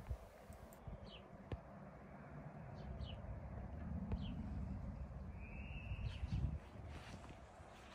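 Birds chirping: a few short, separate chirps, then one longer call a little past five seconds in, over a low background rumble.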